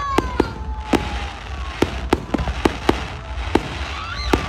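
Aerial fireworks going off: about ten sharp bangs and pops at uneven intervals, with a whistle falling in pitch during the first second or so.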